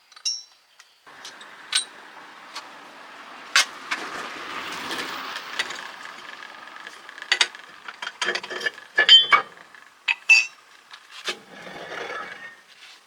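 Metal parts and hand tools knocking and clicking in a workshop: a string of sharp metallic clicks and clanks, some briefly ringing, over a steady rushing noise that begins about a second in.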